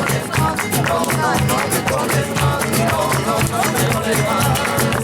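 Acoustic guitar played in flamenco style, with fast rhythmic strumming.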